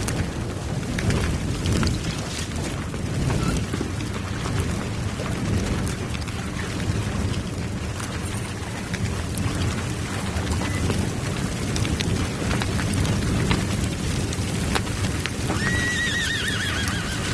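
Dense, steady rumbling noise dotted with crackles, and a horse whinnying in a wavering, falling call near the end.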